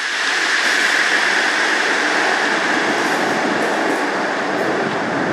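South Western Railway Class 159 diesel multiple unit passing close by as it pulls out of the platform: a steady loud run of underfloor diesel engines and wheels on the rails.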